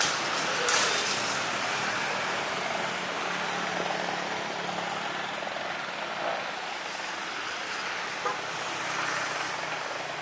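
Aircraft engine running, a steady rushing noise over a faint low hum, with two brief sharp clicks near the start.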